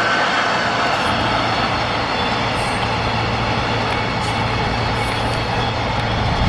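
Freight train running past on the rails: a steady, loud rumble with a low electric hum from the locomotive that comes in about a second in and stops abruptly near the end.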